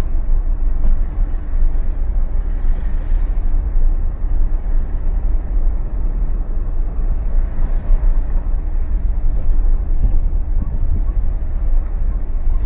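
Steady low rumble of a vehicle on the move, engine and road noise heard from inside the vehicle.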